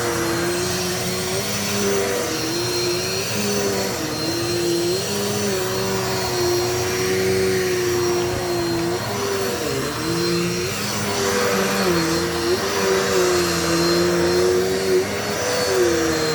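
Dirt Devil multi-surface vacuum cleaner running steadily, its motor pitch dipping and recovering every second or two.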